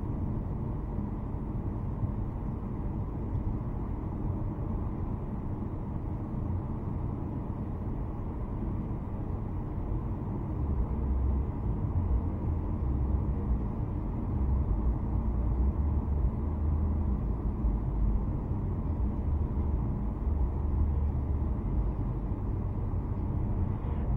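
A car being driven along a road: a steady low rumble of tyres and engine, getting heavier about ten seconds in.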